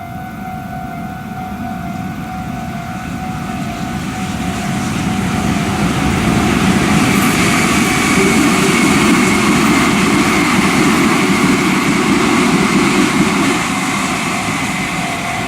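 Meitetsu 2000 series μSky eight-car electric train approaching and passing at speed: a rushing rumble that builds over about six seconds, stays loud, and eases somewhat near the end, with a faint steady high whine through the loud part.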